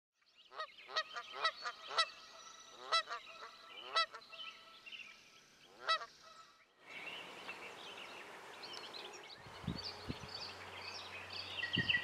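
A series of about nine short honking bird calls, goose-like, in the first six seconds. After a brief gap, an outdoor background of small birds chirping and singing takes over, with a low hum and a few low thumps near the end.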